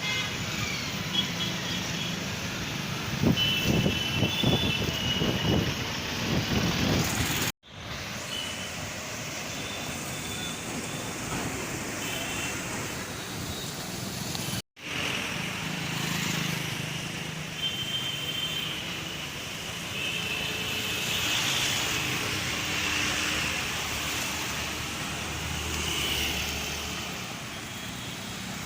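Road traffic noise: vehicles running along a road, with short high tones scattered through it. The sound drops out for an instant twice, about a third and halfway through.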